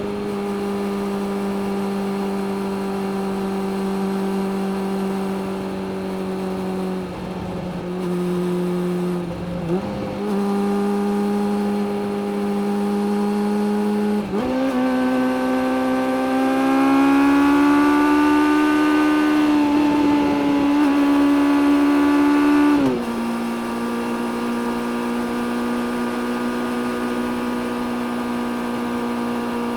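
Suzuki GSX600F's inline-four engine running under way at a steady pitch, with a few brief dips and pitch changes. About halfway through it pulls up in pitch and gets louder for several seconds, then drops back to a steady cruise.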